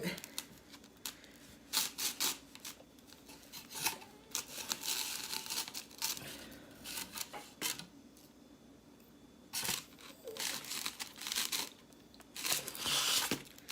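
A knife sawing through a sandwich of bread, with scratchy cutting strokes broken by sharp clicks and knocks of the knife and plate, and a quieter pause in the middle.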